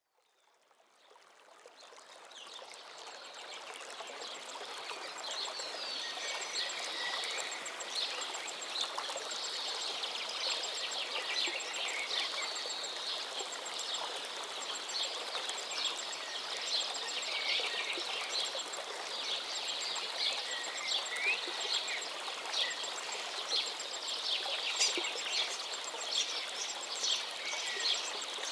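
Many small birds chirping over a steady rushing background, fading in from silence over the first few seconds.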